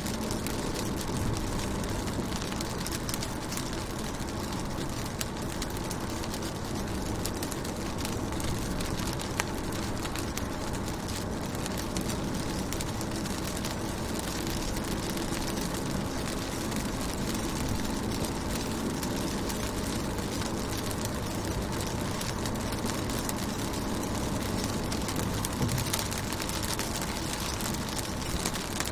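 Rain falling on a car's windows and body, heard from inside the car: a steady hiss of drops with many small ticks, over a low hum.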